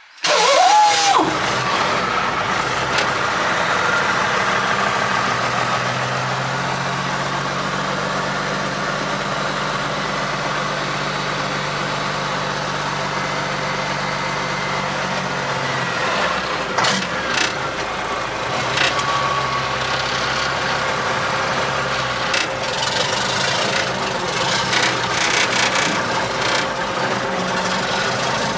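Mack R600 truck's diesel engine starting, catching with a quick rise in revs just after the start, then idling steadily. The idle note shifts at about 16 seconds, and a few sharp clicks and knocks come through it later.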